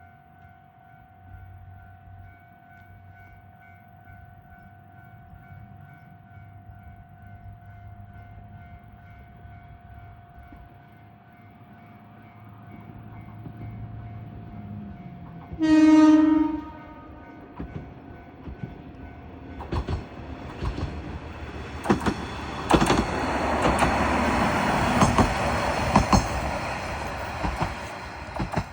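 Kishu Railway diesel railcar sounding its horn once, a blast of about a second, warning at a level crossing with no signals or barriers, then passing close by with wheels clacking over the rail joints, rising to a peak and fading near the end. A faint steady high tone and a low hum are heard before the horn.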